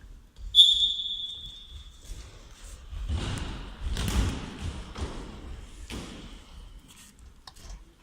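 A referee's whistle blows once, sharply, about half a second in, fading over a second or so. Then come thuds of the football being kicked and bouncing, with sharper knocks about four and six seconds in.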